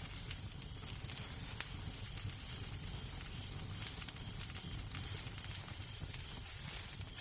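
Wood fire in a fireplace crackling: scattered sharp pops and snaps at irregular moments over a steady soft hiss and a low rumble.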